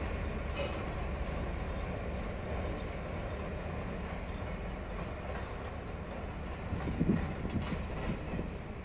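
Mineral hopper cars of a diesel-hauled work train rolling past and moving away, a steady low rumble of wheels on rail. A short cluster of louder knocks comes about seven seconds in.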